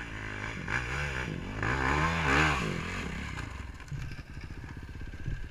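Dirt bike engine revving: its pitch rises and falls a couple of times, loudest around the middle, then settles back to a lower, steadier run.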